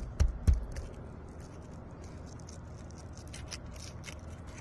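Asphalt 3-tab shingle being handled and lifted at its edge: two knocks about a quarter and half a second in, then light scraping and scattered crackling clicks.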